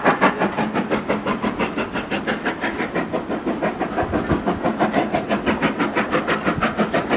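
Steam locomotive under way, its exhaust beats coming evenly at about five a second.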